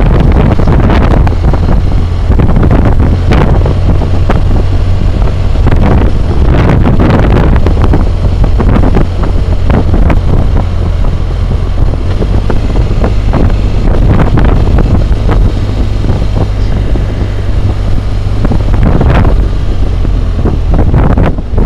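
Wind roar buffeting the microphone of a helmet-mounted camera on a moving BMW motorcycle, with the bike's engine running low underneath. The roar is loud throughout, surging in irregular gusts every few seconds.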